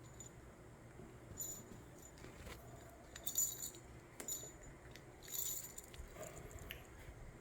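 The bell inside a pet bird's bell ball jingling faintly in about four short bursts as a green-cheeked conure handles it, with a few light clicks in between.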